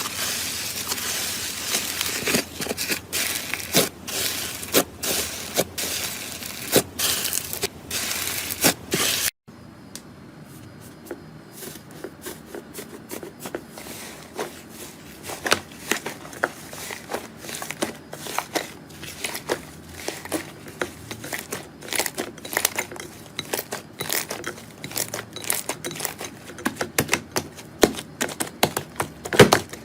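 Slime being squeezed and pressed by hand, giving sticky crackling with many sharp clicks and pops. About nine seconds in it cuts to a quieter clip of scattered clicks and pops.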